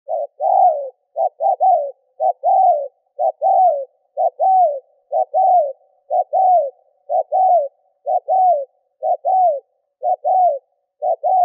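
Spotted dove cooing fast and urgently: about a dozen phrases, one a second, each a clipped short note followed by a longer falling coo. This is the excited 'thúc gù' coo of a decoy bird, used to provoke wild doves into answering.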